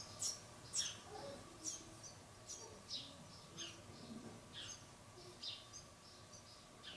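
Small birds chirping: short, high chirps at about two a second, faint and fading through the middle.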